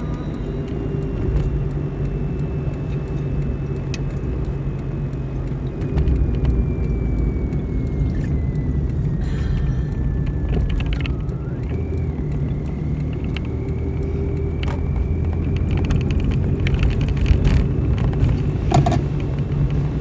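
A motor vehicle's steady low rumble, growing louder about six seconds in. A thin whine falls slowly in pitch, then rises again, and scattered light clicks sound through it.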